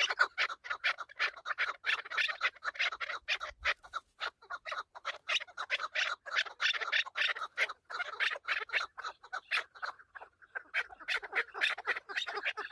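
Chukar partridges calling: a fast, continuous run of short clucking notes, several a second, breaking off briefly about ten seconds in before starting again.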